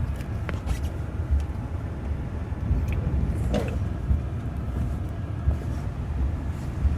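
Steady low rumble of a car, engine and road noise heard from inside the cabin, with a few faint clicks.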